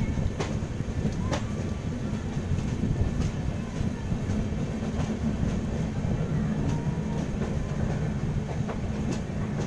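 Passenger train running at speed, heard from a coach's open door: a steady heavy rumble of wheels on rail, with a few sharp clicks, a cluster in the first few seconds and another near the end.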